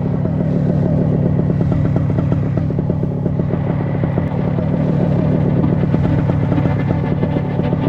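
Small paramotor engine running steadily at constant power, with a fast, even firing rhythm.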